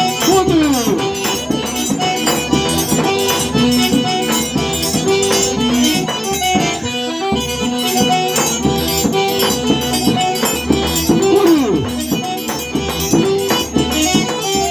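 Forró instrumental: an eight-bass button accordion plays the melody over a steady, rattling percussion beat.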